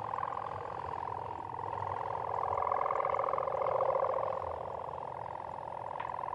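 Kite hummer (sendaren) droning in strong wind: a steady buzzing hum with several pitches sounding together, swelling louder midway and then easing.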